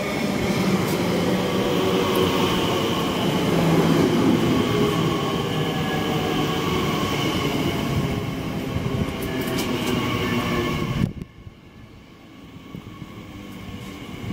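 Class 345 electric multiple unit drawing into the platform close by: wheels and running gear rumbling, with a few high steady whining tones over it. The noise drops off abruptly about eleven seconds in, then picks up a little again.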